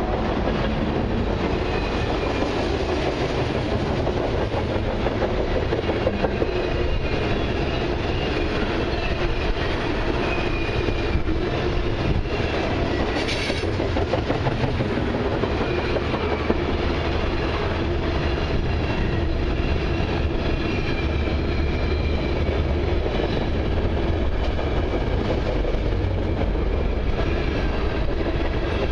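Freight cars of a passing train, tank cars and open hopper cars, rolling by close up: a steady rumble of steel wheels on rail with clicking over the rail joints. A faint thin wheel squeal rides on top through roughly the first half.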